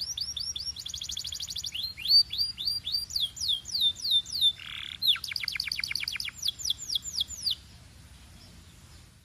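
Canary singing: fast trills of rapidly repeated notes alternating with series of high, downward-slurred whistled notes, with a brief harsh note about five seconds in. The song stops about seven and a half seconds in, leaving only a faint low hum.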